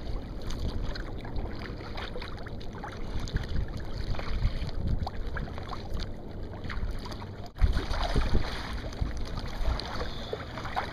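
Wind buffeting the microphone over water sloshing and splashing around a paddled sea kayak on choppy water. A brief dropout comes about three-quarters of the way through, and the wind rumble is louder after it.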